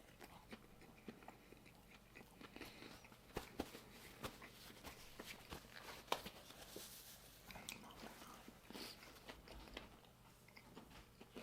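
Faint chewing: a person eating a barbecue chicken sandwich, with irregular soft mouth clicks and a few sharper ones scattered through.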